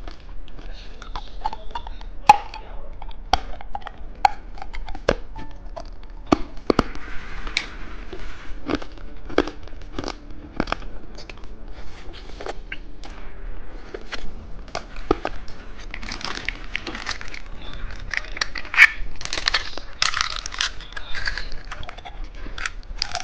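Hard candy being bitten and crunched close to the microphone, with sharp cracks throughout. Crinkling grows denser about two-thirds of the way in.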